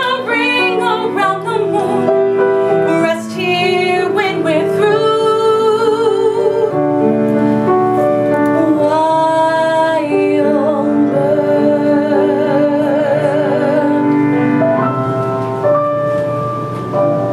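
A singer holding long notes with vibrato over piano accompaniment: the closing phrases of a slow song.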